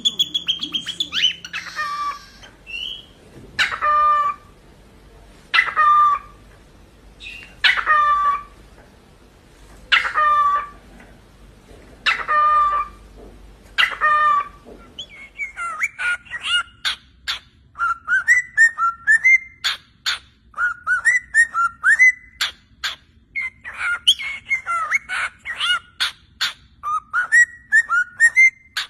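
Cockatiel calling: about seven loud, drawn-out falling whistled calls, one every couple of seconds, then a fast chattering warble of short chirps and clicks through the second half.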